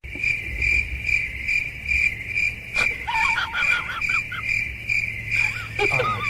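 Steady, high-pitched pulsing chirp, about two to three pulses a second, with short warbling squeaks about three seconds in and again near the end.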